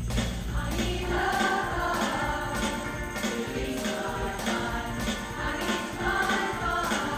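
Women's choir singing a pop song to a musical accompaniment with a steady percussion beat; the voices come in about a second in as the low accompaniment drops away.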